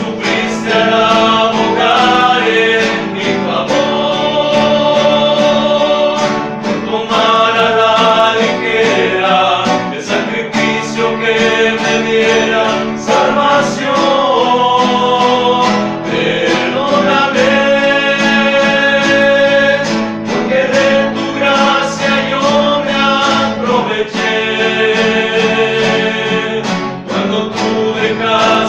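Men's rondalla performing: a male group singing over strummed and plucked guitars.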